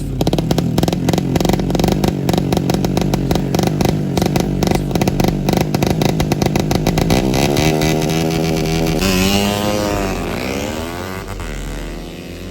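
Honda Blade motorcycle engine, tuned and enlarged to 150cc as a racing engine, revving high with a rapid, even firing. About eight seconds in the revs fall away, then rise and fall again in quick blips.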